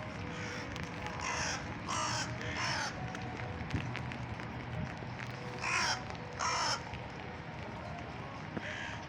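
Gulls giving harsh, raspy calls, about six in all, in short pairs with pauses between, over a steady background hiss.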